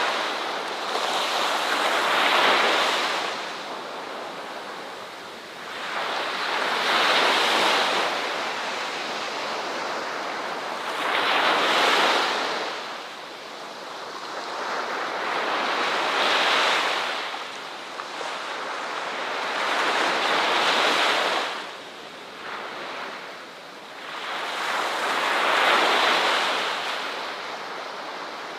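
Ocean waves breaking on a beach, each wash swelling and fading in a slow rhythm, about one every four to five seconds.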